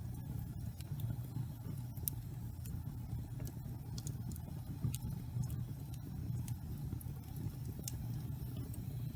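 Wood fire burning in a fireplace: a steady low rumble of flames with scattered sharp crackles and pops from the burning wood, several over the few seconds.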